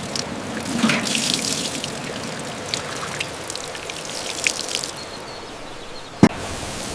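Running water trickling and splashing steadily. There is one sharp knock about six seconds in.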